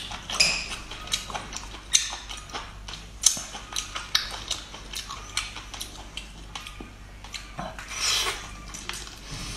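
Close-miked biting and chewing of a large cooked octopus: an irregular run of sharp mouth clicks and smacks, thickest around 8 seconds in as she bites into the head.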